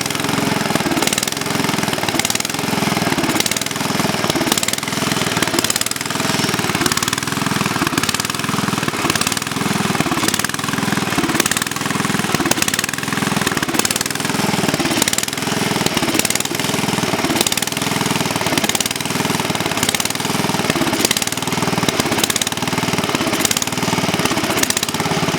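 1967 Sears Suburban 10 garden tractor's 10 hp Tecumseh cast-iron single-cylinder engine running after a cold start, with a regular pulsing in its sound about one and a half times a second.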